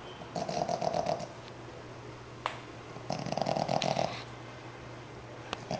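A five-month-old Boston Terrier puppy snoring in deep sleep: snores about a second long, coming roughly every two and a half seconds, two in full and a third starting near the end. A faint click falls between the first two snores.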